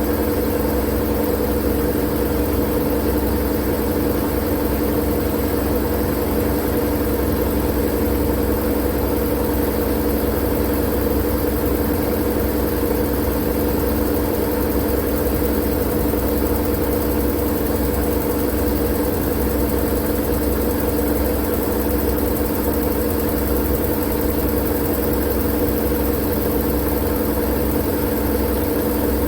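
Steady white-noise track: an even hiss with a low, droning hum under it, never changing.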